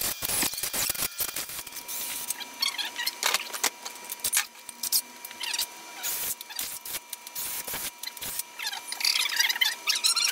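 Drill bit squealing in bursts in a metal engine mounting hole, with clicks and knocks, as the hole is bored out from 10 mm to 12 mm.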